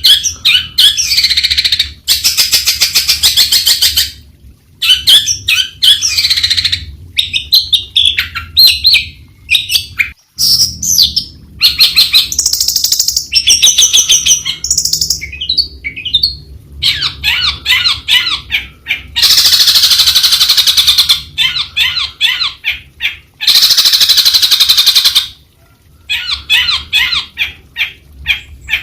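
Long-tailed shrike singing: a loud, varied song of rapid chattering note-runs and sweeping whistled phrases, broken by short pauses.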